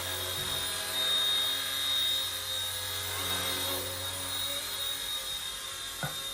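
RC ERA C138 micro RC helicopter (1/33-scale Bell 206) hovering: a steady high electric-motor whine over the low hum of its two-blade main rotor.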